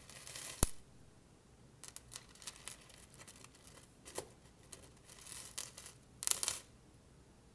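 Steel paperclips being handled against a magnet: small metallic clicks and scratchy shuffling in short bursts, with one sharp click just over half a second in.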